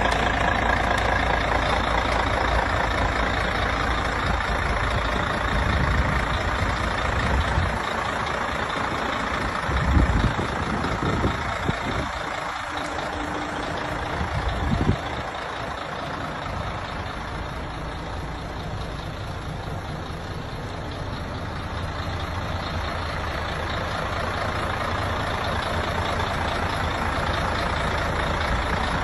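Mercedes-Benz Actros truck running, a steady heavy vehicle sound with a few short low thumps around the middle.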